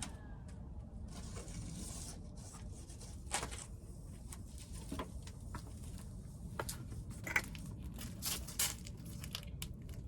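Welding arc on car floor-pan sheet metal, crackling irregularly with scattered sharp pops over a low steady rumble.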